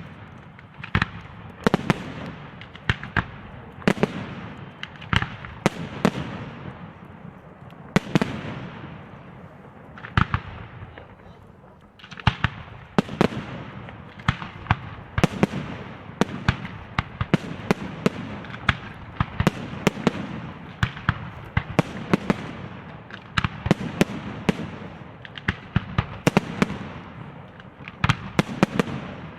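Aerial fireworks display: shells bursting in quick, irregular succession, several loud bangs a second with echoing tails, over a steady crackle.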